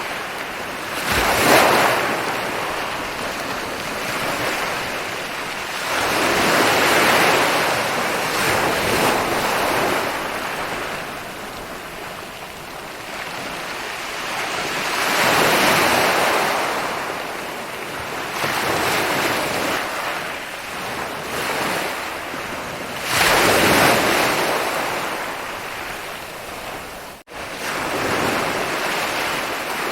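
Ocean waves breaking and washing up a beach in slow surges every several seconds, each swelling and ebbing away, with a split-second dropout near the end.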